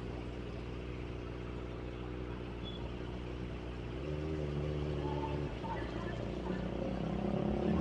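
Kawasaki ZX25R's 250 cc inline-four engine running steadily; its revs step up briefly about four seconds in, then climb gently near the end.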